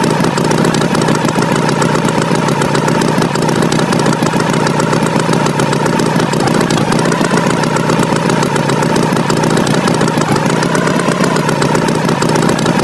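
Tractor engine running steadily, a continuous rumble with a held whine on top.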